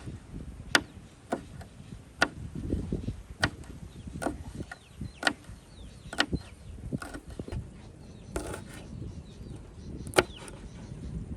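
Irregular sharp chopping strikes of a blade on wood, about a dozen, coming every half second to second, with a longer gap before one loud strike near the end.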